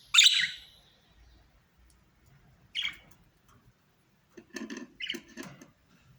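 Budgerigars calling: a loud, sharp call just after the start, a shorter call about three seconds in, then a second or so of rapid chattering near the end.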